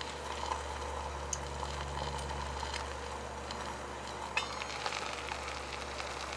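Bacon and egg sizzling and crackling in a small cast-iron skillet on a cartridge gas single burner, over a steady low rumble. About four seconds in a short metallic clink as the stainless lid is lifted off, after which the sizzling is clearer.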